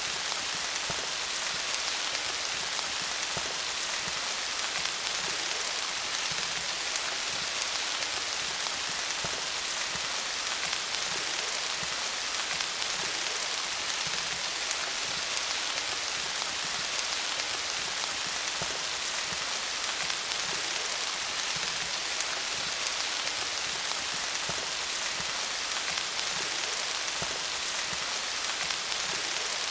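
Steady rain falling on leaves: a constant, even hiss dotted with fine pattering drop ticks.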